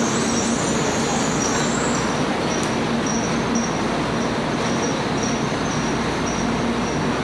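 Shinkansen bullet train moving slowly alongside the platform: a steady rumble of wheels and running gear, with a low hum in the first half and a faint high tone that comes and goes about twice a second.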